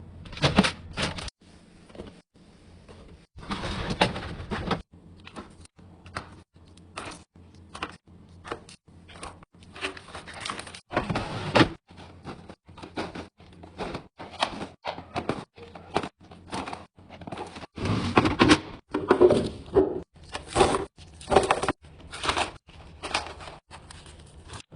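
A run of light knocks, clicks and clatter of food containers and packaging being handled and set down while a refrigerator is restocked, with a few longer rustling or scraping stretches.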